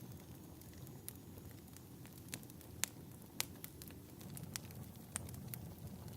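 Fireplace crackling: a steady low rumble of burning logs with scattered sharp pops, about seven in all, the loudest a little under three seconds in and again about half a second later.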